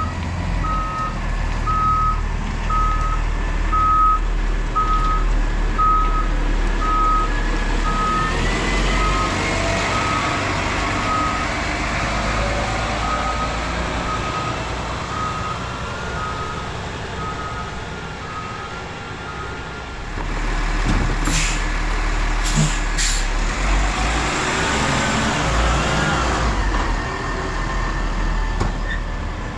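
Autocar ACX rear-loader garbage truck backing up, its reverse alarm beeping about once a second over the steady engine drone. The beeping stops about two-thirds of the way through, followed by a few short sharp hisses of air release, typical of the air brakes being set.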